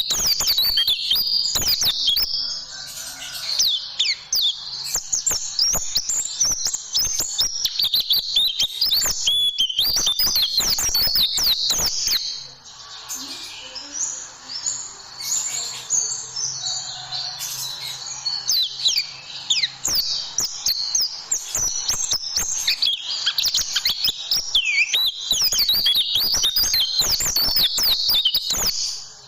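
White-eye (pleci) song: a fast, dense chatter of high chirps and quick descending trills in rapid-fire 'tembakan' phrases, easing off briefly near the middle.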